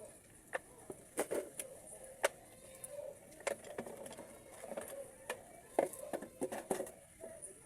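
Irregular clicks and light taps of small metal transmission valve body parts being handled and set down during a valve body service.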